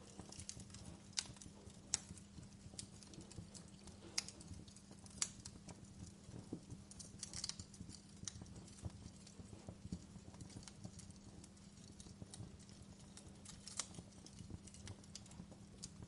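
Wood fire crackling: sharp pops and snaps at irregular intervals, a few louder than the rest, over a low steady hum.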